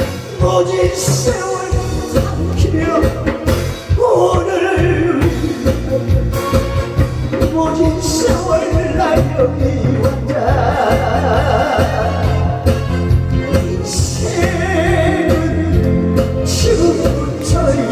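A singer's voice through a PA over a loud backing track with a steady bass beat.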